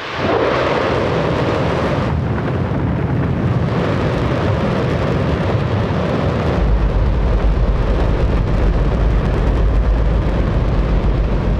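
Space Shuttle main engine, burning hydrogen and oxygen, firing on a test stand: a continuous, extremely loud rush of rocket exhaust noise that gains a heavier low rumble about six and a half seconds in.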